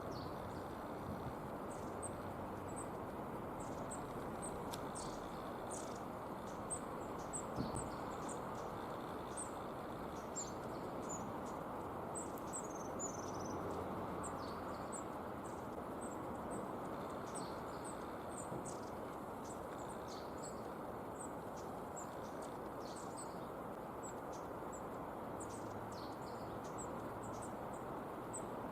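Long-tailed tits calling: many short, thin, very high contact notes in quick succession, over a steady background hum of distant noise.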